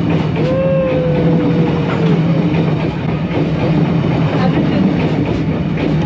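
Train running past at close range: a loud, steady rumble of wheels and carriages with scattered clicks and knocks from the rail, and a drawn-out, slightly falling tone about half a second in.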